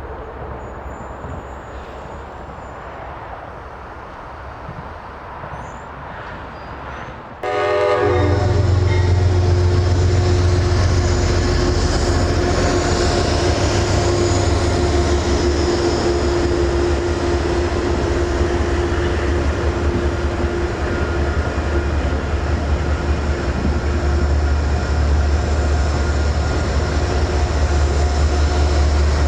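Metro-North train hauled by GE Genesis locomotives passing close by: a steady, loud low drone with rail and wheel noise. About seven seconds in it jumps suddenly much louder and stays loud.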